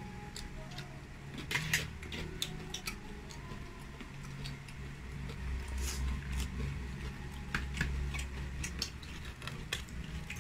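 Close-miked eating sounds of a person chewing fried pork knuckle (crispy pata): irregular wet mouth clicks and smacks, over a low rumble of hands handling the meat.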